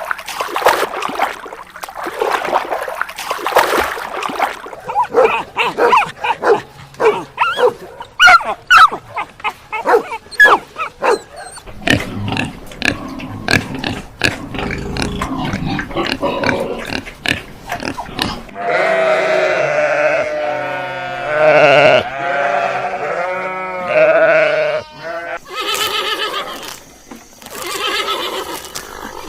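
A run of farm animal calls from several different animals in turn: short, quick repeated calls in the first half, then long wavering pitched calls from about two-thirds of the way in.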